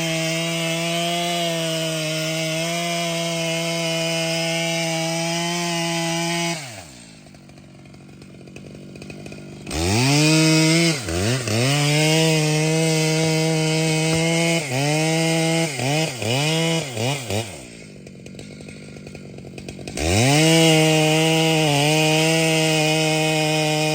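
Large two-stroke chainsaw held at full throttle, then dropping to idle about six seconds in. It revs back up, its revs dipping briefly about half a dozen times. It drops to idle again for a couple of seconds, then runs at full throttle once more.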